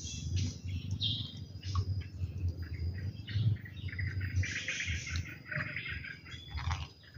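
Wild birds chirping and calling, many short chirps overlapping, over a low, uneven rumble.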